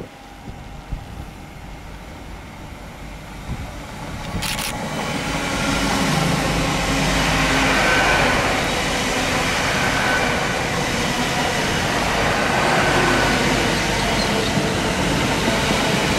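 Two coupled Great Western Railway Class 800 trains passing through at speed. A steady rushing rail and wheel noise builds over the first few seconds and stays loud as the carriages go by, with a brief sharp click about four and a half seconds in.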